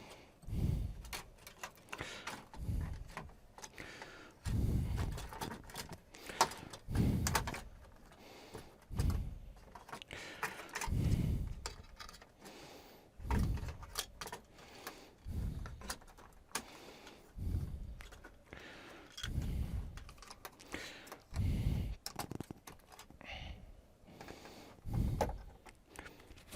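Handling noise from a flat-screen TV being reassembled: small clicks and clinks of parts, with low, muffled thuds about every two seconds.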